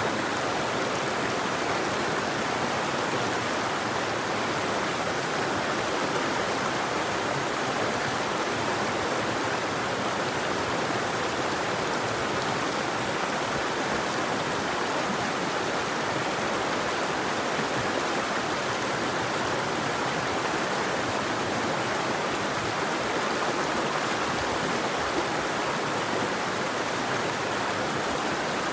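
River water flowing: a steady, even rush with no birdsong.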